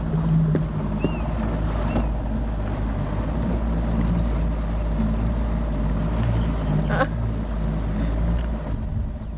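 Motorboat engine running steadily, with wind on the microphone; the engine's drone eases near the end.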